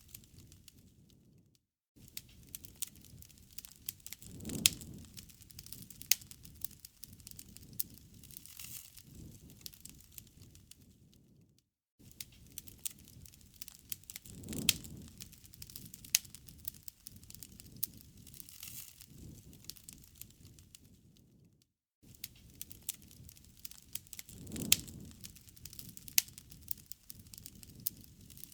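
Wood campfire crackling and popping, with sharp snaps over a low hush of the flames. It drops out briefly about every ten seconds, as a looped recording.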